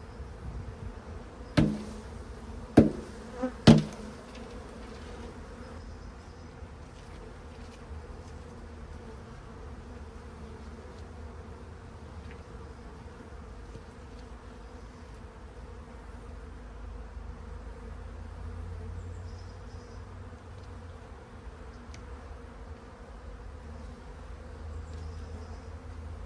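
A mass of honeybees buzzing steadily around an open hive as a colony is transferred. Three sharp knocks come in quick succession about two to four seconds in.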